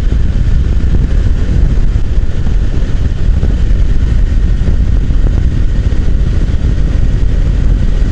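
Motorcycle riding at a steady speed: the engine runs under a constant rush of wind, heaviest in the low end, with no change in pace.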